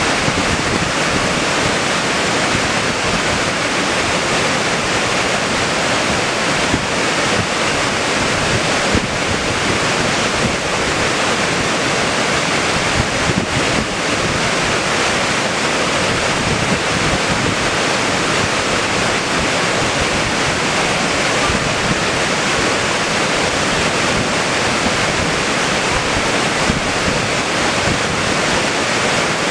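Loud, steady rush of fast-flowing floodwater, an unbroken noise with no let-up.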